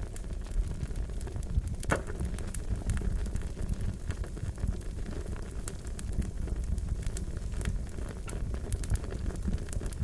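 Wood fire crackling, with a steady low rumble and many small irregular pops, one sharper pop about two seconds in.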